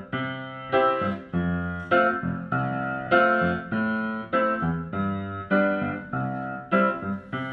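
Background music: a keyboard playing a steady run of struck chords, about two a second, each fading before the next, with no singing.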